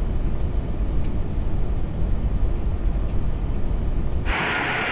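Airbus A380 cockpit on short final: steady low rumble of airflow and engines. About four seconds in, a loud, even hiss abruptly replaces the rumble.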